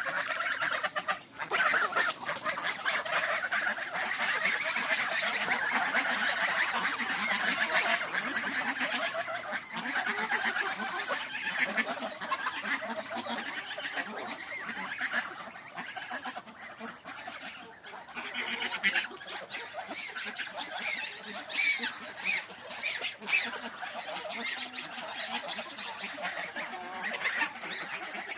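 A flock of farmyard fowl calling, with many calls overlapping into a dense din for the first half, then thinning into more separate calls.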